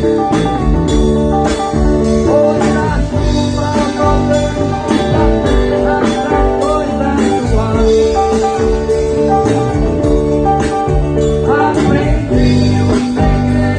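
A band playing music with guitar, bass and a steady drum beat, with a singing voice.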